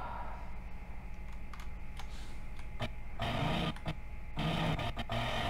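A few keyboard and mouse clicks, then from about three seconds in the engine and cabin noise of on-track in-car footage played back from the editing timeline. It cuts out for a moment near the end and starts again, as playback is stopped and restarted.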